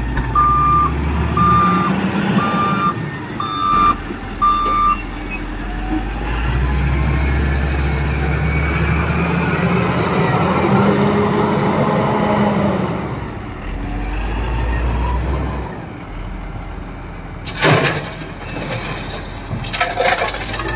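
LiuGong 838H wheel loader's reversing alarm beeps five times, about once a second, over the diesel engine. The engine then revs up and holds for several seconds before dropping back. A sharp knock comes near the end.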